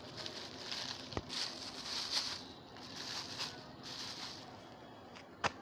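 High-pitched chirps from a small animal, about two a second, that fade out after about four seconds. A sharp click sounds near the end.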